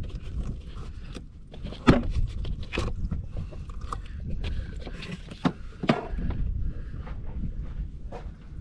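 Scattered clicks, taps and a few sharper knocks of hand tools and parts being handled on a car engine while a fuel line is disconnected, over a low rumble of wind on the microphone.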